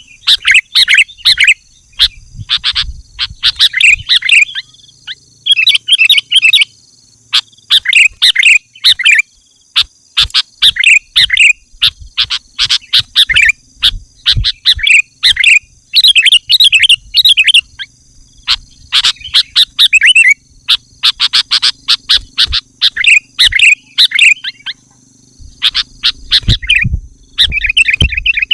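Sooty-headed bulbul (kutilang) singing loud, quick chattering phrases one after another with short pauses between, over a steady thin high-pitched whine.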